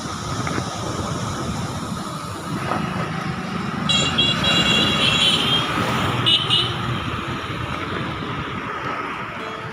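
Passenger train running with a steady rumble. A series of short high-pitched tones sounds from about four seconds in for around two and a half seconds.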